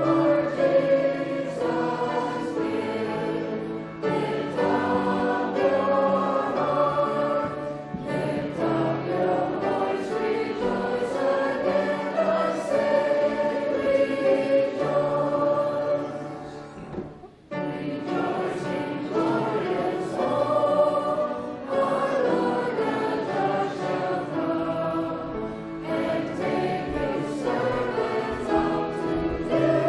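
Choir singing in a church service, a sustained sung piece that breaks off briefly about halfway through before the singing resumes.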